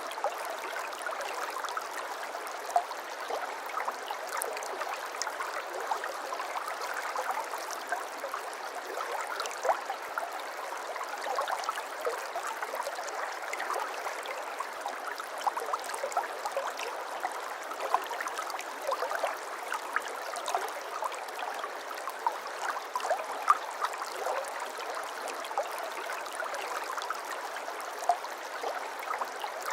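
Water flowing steadily in a shallow stream, a constant babble dotted with small splashes and trickles.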